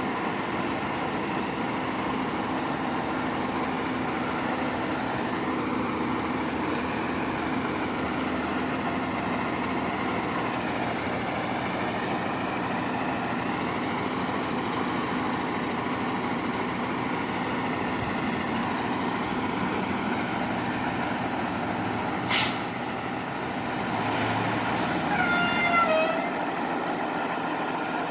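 A Pierce Quantum fire engine's diesel engine running steadily at low speed. About 22 seconds in, a short, sharp air-brake hiss, then a couple of seconds later a longer hiss with a falling squeal.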